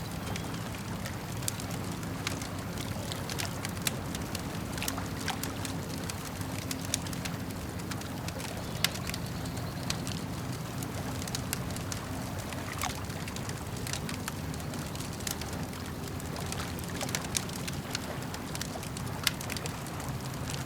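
Campfire crackling, with irregular sharp pops and snaps, over a steady low wash of lake water.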